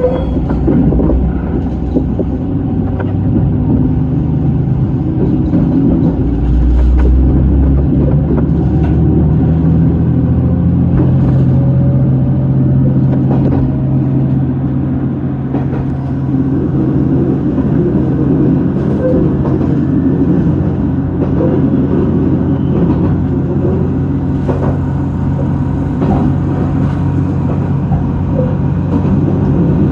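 Diesel railcar engine running with a steady low rumble, most likely a JR Shikoku 2000 series train; the rumble swells heavier about six seconds in and the engine note shifts a few seconds later.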